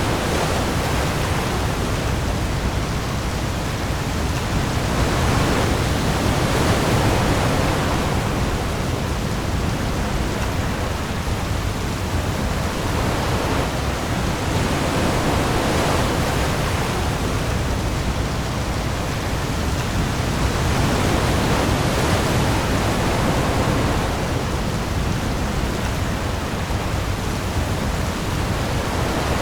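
Heavy rain on the open sea with waves: a dense, steady hiss over a deep low rumble, swelling and easing slowly every several seconds.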